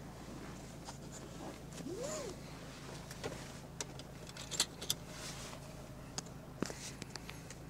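Peugeot 407's 2.2 HDi four-cylinder diesel engine idling, heard faintly from inside the cabin as a steady low hum. Over it come a rising-then-falling squeak about two seconds in and a scatter of sharp clicks, loudest around four to five seconds in and again near the end.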